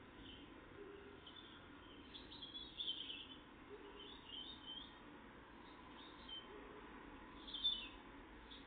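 Small songbirds giving faint, short, high chirps in several scattered groups, the loudest one about three-quarters of the way through.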